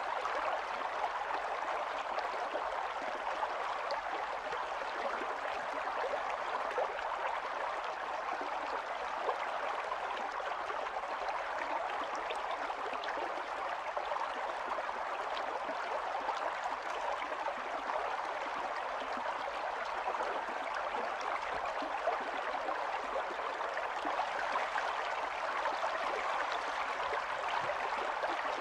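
Small stream of running water flowing and gurgling steadily over stones, a continuous splashing babble without a break.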